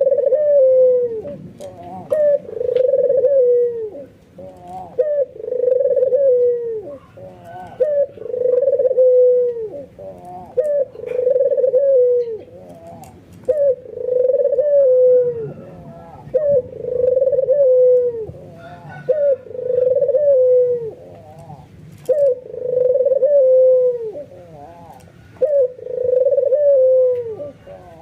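White albino Barbary dove (puter) giving its repeated coo: a long, low call ending in a falling slide, about every two and a half seconds. This is the nodding display coo, which is meant to set other doves calling.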